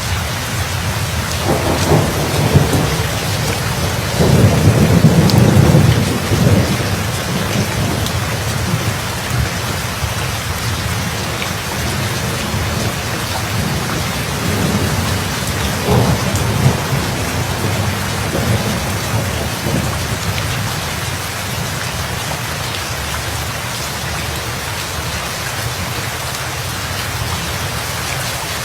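Steady heavy rain with thunder: a rumble about two seconds in, the loudest and longest roll of thunder from about four to six seconds in, and a shorter rumble near the middle, then rain alone.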